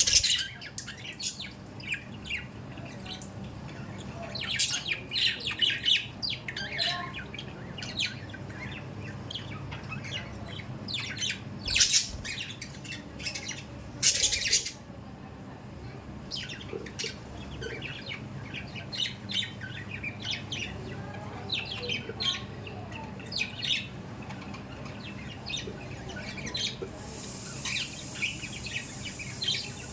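Budgerigars chirping and chattering in a flock, with sharper calls in bursts, over a steady low hum.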